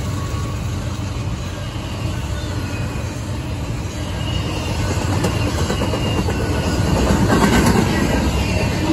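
Intermodal freight train cars rolling past, their steel wheels running on the rails. A faint high squeal comes in about halfway through, and the sound grows louder near the end as the cars pass close.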